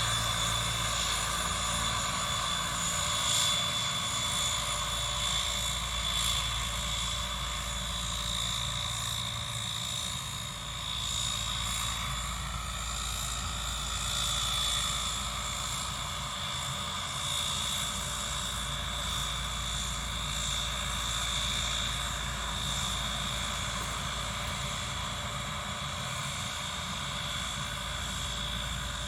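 Rolls-Royce Dart turboprop engines of a YS-11 running with a steady high-pitched whine over a propeller drone.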